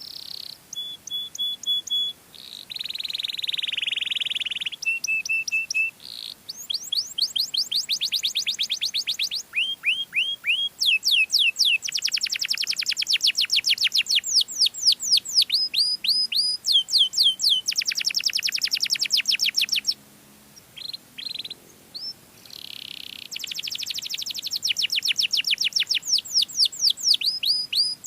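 Domestic canary singing a long, varied song of rapid repeated phrases: fast trills of high downward-sweeping notes alternating with buzzy rolls and short held notes, broken by a brief pause about twenty seconds in.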